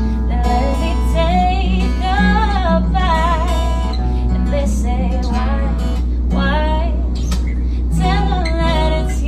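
A woman singing a slow song, her voice sliding and ornamenting between held notes, over acoustic guitar, with a steady low hum underneath.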